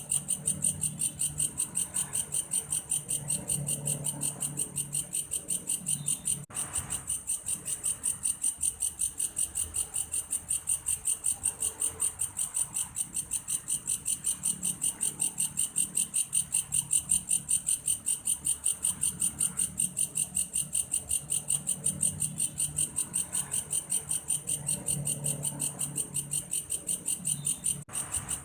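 Belalang kayu, a singing grasshopper, calling in a steady, rapid pulsed trill, about four pulses a second, high-pitched and buzzy.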